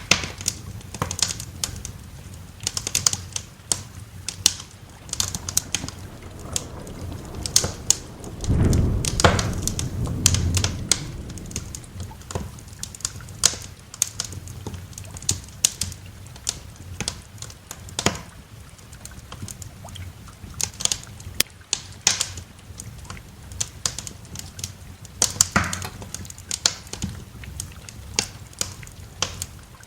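Wood fire crackling with frequent sharp pops. A low roll of thunder rumbles for a few seconds about eight seconds in.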